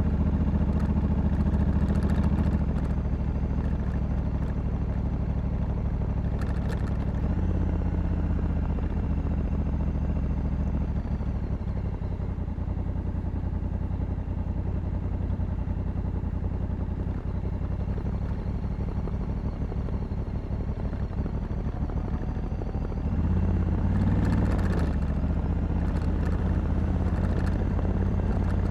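Honda Africa Twin 1100's parallel-twin engine running on the move, heard from the rider's seat with rushing air. The engine note eases off a few seconds in and rises again about 23 seconds in as the throttle opens.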